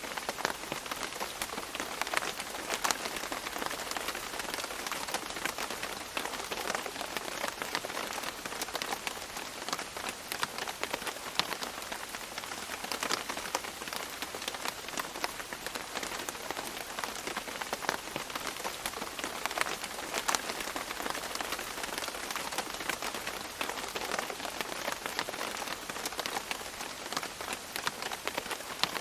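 Steady tropical rain falling and dripping on leaves, a constant patter with many distinct close drops hitting leaf surfaces scattered throughout.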